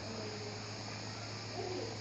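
A cat's two faint, short meows, one right at the start and one near the end, over a steady low hum.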